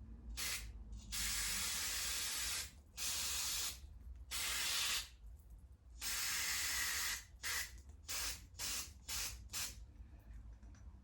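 Aerosol carburetor cleaner sprayed in bursts: about five long sprays of a second or so, then half a dozen short quick puffs, flushing out the jets of a small-engine carburetor.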